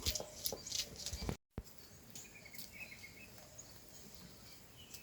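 A few sharp knocks in the first second or so, then an abrupt cut to faint outdoor ambience with a few short bird chirps.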